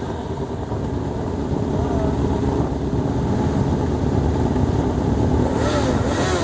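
Steady, dense rumble of many motorcycle engines running together.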